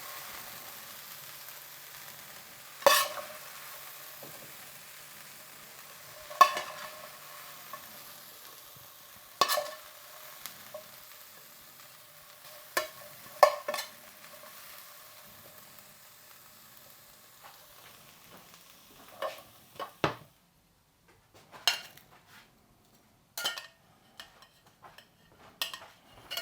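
A pan of fried potatoes sizzling and slowly dying down after the heat is turned off, with a utensil knocking against the pan every few seconds. About twenty seconds in the sizzle stops and a few scattered clinks follow.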